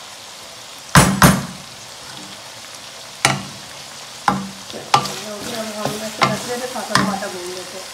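Mutton keema sizzling in oil in a metal pot, with sharp metal clinks against the pot about seven times, two close together about a second in.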